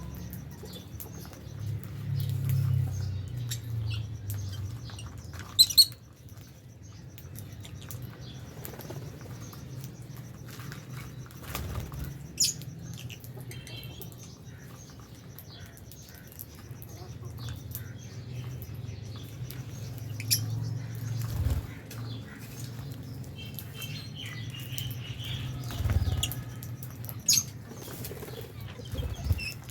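Lovebirds in an aviary flapping their wings in bursts, with scattered short high chirps and clicks. Two sharp, loud clicks come about six seconds in.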